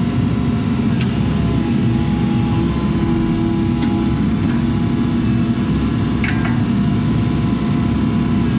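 Diesel engine of a compact earthmoving machine running steadily under load, with a steady hydraulic whine over it. There are light clanks about a second in and again near six seconds.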